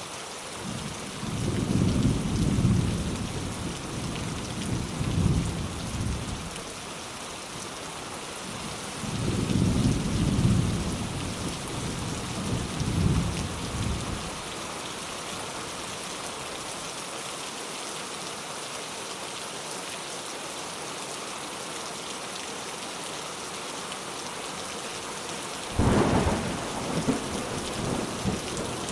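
Steady heavy rain hissing, with thunder. A long rolling rumble starts about a second in, a second one follows about nine seconds in, and a sharp thunderclap comes near the end, trailing off into more rumbling.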